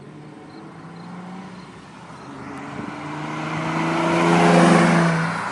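Porsche sports car accelerating hard past on full throttle, its exhaust note building steadily to a loud peak about four and a half seconds in and then starting to fade as it goes by.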